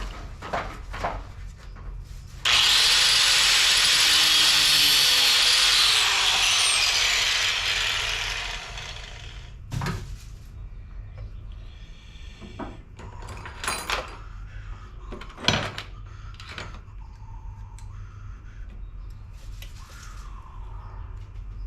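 A loud rushing hiss starts suddenly about two and a half seconds in and trails off over some six seconds, followed by scattered knocks and clicks of tools and parts being handled.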